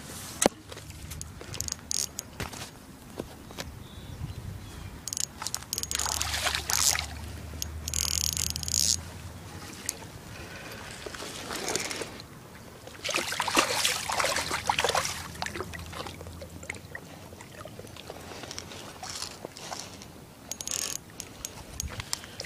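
Water splashing and sloshing in irregular bursts as a hooked carp thrashes while being grabbed by hand.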